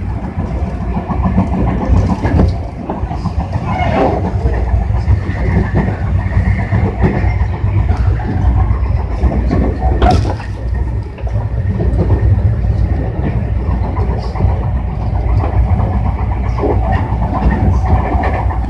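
Tobu 60000 series electric train running, heard on board: a steady rumble of wheels on the track, with scattered knocks from the rails.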